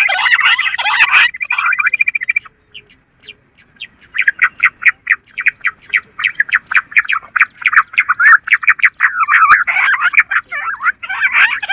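Bush quail calling: a rapid chattering series of short notes that breaks off briefly about two seconds in, then resumes as quick, evenly repeated notes that thicken into a dense chatter toward the end.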